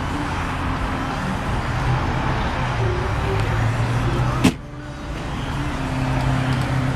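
Steady motor-vehicle noise with a low hum that shifts in pitch now and then. A single sharp click comes about four and a half seconds in, and the sound is briefly quieter after it.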